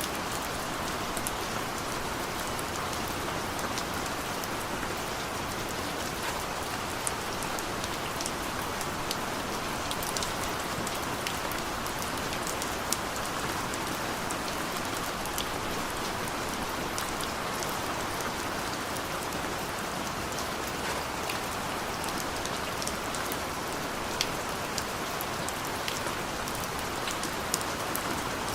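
Steady rain falling, a constant hiss with the crisp ticks of individual drops hitting a surface scattered through it.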